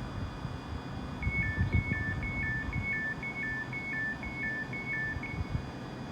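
Electronic two-tone warning beeps alternating high and low, about two pairs a second, for about four seconds from a second in, over a low rumble.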